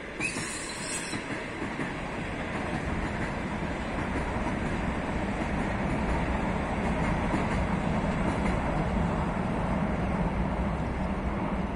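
Electric multiple unit train crossing a steel truss railway bridge: rumble and clatter of its wheels on the bridge, building up over the first few seconds and then holding steady and loud. A short high-pitched hiss sounds just after the start.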